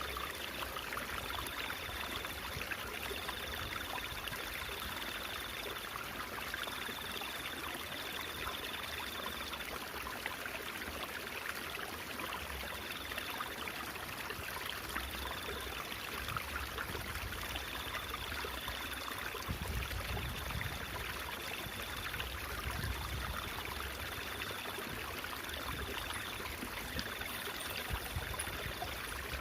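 Babbling stream water, a steady trickling rush, with a faint high-pitched tone coming and going in short stretches.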